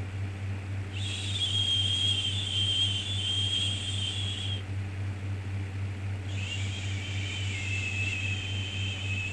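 Shushing 'shhh' sound for soothing a baby, twice, each about three and a half seconds long with a short pause between, over a steady low hum.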